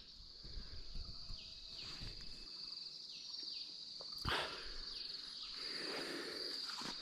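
Rural outdoor ambience with a steady high-pitched insect trill throughout, and a few short falling chirps from another small animal. There is a single sharp knock about four seconds in.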